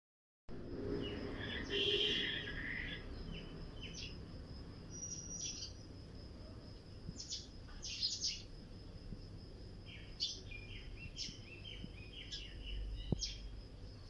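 A flock of small birds chirping, with short, high chirps scattered throughout and a busier burst about two seconds in. A faint steady high tone runs underneath.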